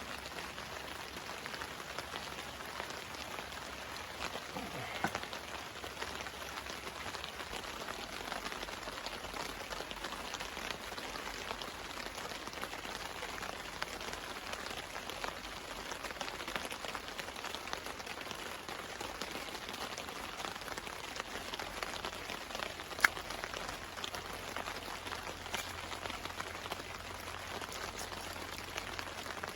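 Steady rain falling on a tarp, a dense even patter of small drop ticks, with one sharper tick about three-quarters of the way through.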